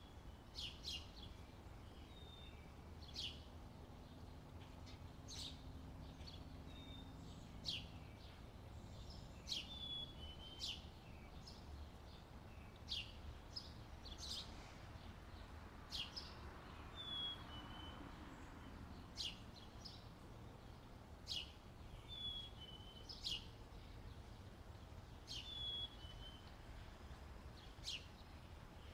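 Birds chirping: short, sharp calls about once a second, mixed with brief falling whistled notes, over a faint steady background hiss.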